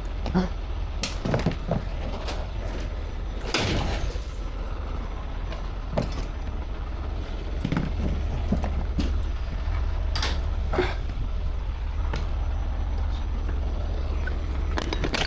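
Truck engine idling with a steady low rumble, with scattered knocks and clunks of equipment being handled, the loudest about four seconds in.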